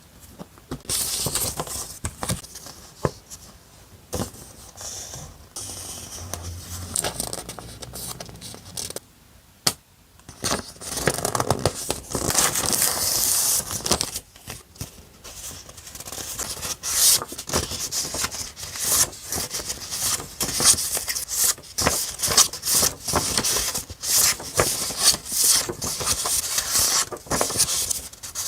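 Paper and sticker sheets being handled close up: irregular rustling and scraping with small clicks and taps, quieter for a moment about a third of the way in.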